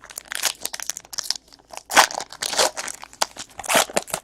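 Trading-card pack wrappers crinkling and tearing as packs are opened and cards handled: a run of irregular rustles, loudest about two seconds in and again near the end.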